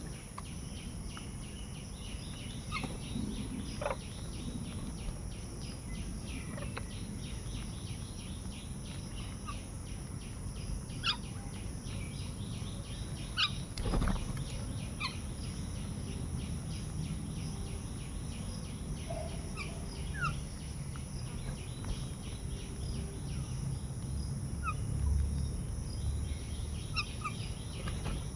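Birds calling outdoors: scattered short chirps and brief calls over steady background noise, with a constant thin high-pitched tone underneath.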